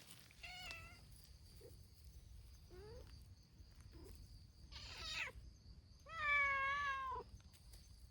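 Stray domestic cats meowing: a series of separate meows, one rising, with the loudest and longest meow near the end.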